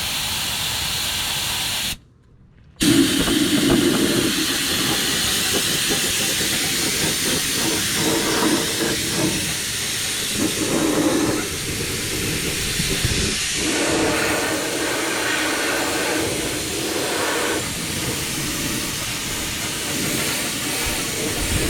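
Air-powered undercoating spray gun hissing steadily as it sprays rubberized undercoating. The hiss breaks off for under a second about two seconds in, then carries on.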